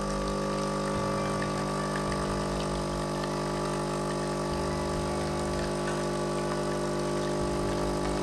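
A small electric kitchen appliance motor, such as a mixer or blender, runs at a steady speed with an even, unchanging hum.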